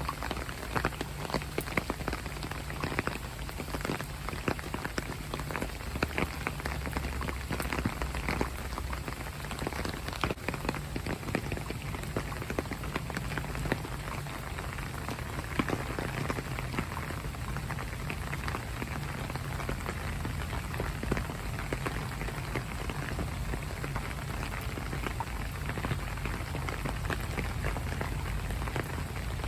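Steady rain falling, with many separate drops ticking on hard surfaces close by over a constant low rumble.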